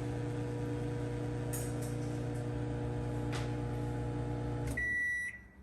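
Microwave oven running with a steady hum while it heats, cutting off shortly before the end, then sounding its high end-of-cycle beep.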